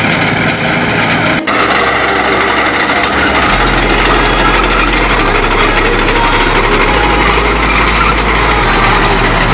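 Diesel tractor engines working hard under load while ploughing, a steady loud run with a brief break about a second and a half in.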